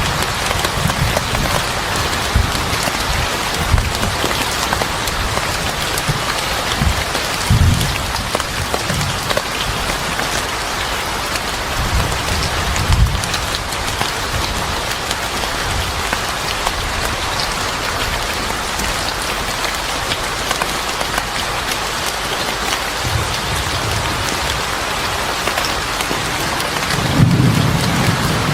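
Steady heavy rain with irregular low rumbles, the strongest near the end.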